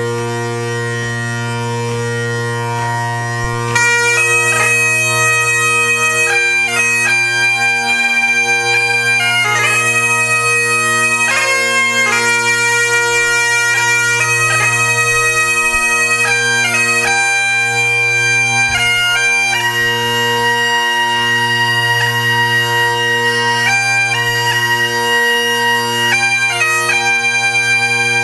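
Bagpipe music: the drones sound alone at first, then the chanter melody comes in about four seconds in and plays over the steady drones.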